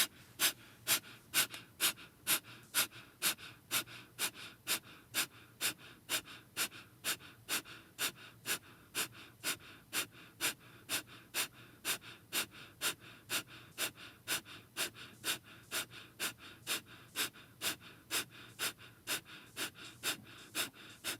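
Kapalabhati (skull-shining) breath: sharp, forceful exhales through the nose with the lips sealed, in a steady rhythm of about two a second.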